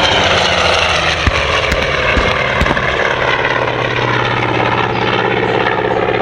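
Propeller aircraft engine running loud and steady.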